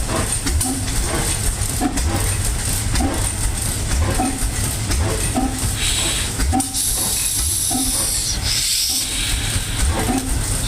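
Old Evans Manufacturing Company gas engine running with a regular chug, a beat roughly every three-quarters of a second. A hiss joins about six seconds in, breaks off briefly and returns near the end.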